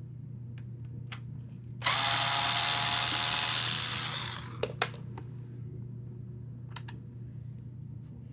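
A 4.8-volt electric screwdriver runs for about two seconds, unscrewing a long screw, then winds down. Two light clicks follow.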